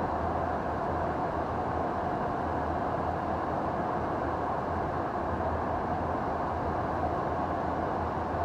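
Steady drone of aircraft engines: an even rushing noise with a constant mid-pitched tone and a low hum, unchanging throughout.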